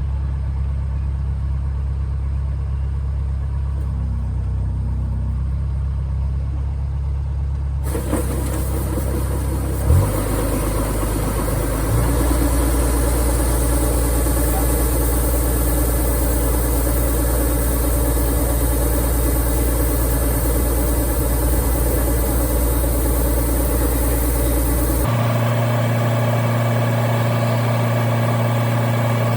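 Engine of a rice harvesting machine running steadily. The sound changes abruptly a few times as clips are cut together, with a brief thump about 10 seconds in.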